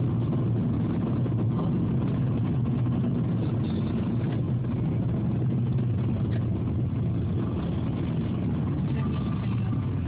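Steady engine and road rumble inside a moving car.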